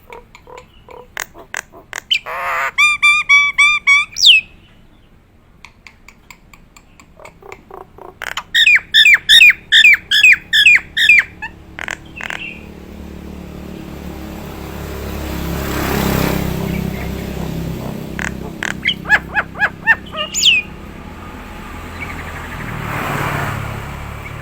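Nias hill myna calling in loud bouts of rapid, repeated whistled notes, three bouts in all. In the second half a rushing noise swells and fades twice.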